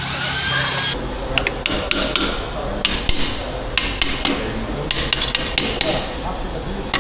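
A short rising whine in the first second, then metal tools striking and clanking on engine parts: repeated irregular sharp taps and knocks, some with a brief ring.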